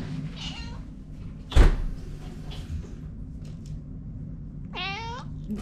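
A domestic cat meows once, a short call near the end. A single thump sounds about a second and a half in.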